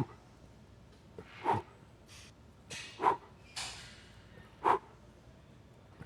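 A man's short, forceful breaths, about five of them roughly a second apart, pushed out with each rep of a dumbbell shoulder exercise.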